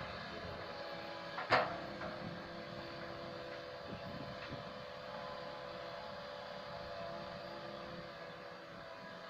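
Komatsu PC160LC tracked excavator's diesel engine running steadily while it loads soil into a dump truck. A single sharp knock comes about a second and a half in, and two fainter knocks follow near four seconds.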